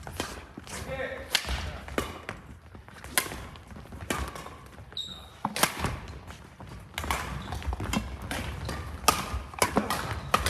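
Badminton rally: sharp, irregular hits of rackets on a shuttlecock mixed with thuds of footsteps on the court. A brief high squeak about halfway through.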